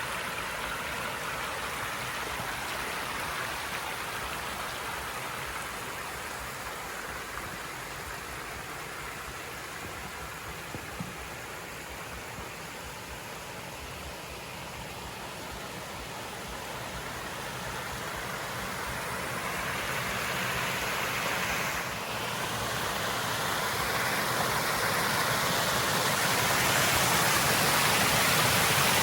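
Waterfall: steady rushing water. It grows gradually louder over the last third.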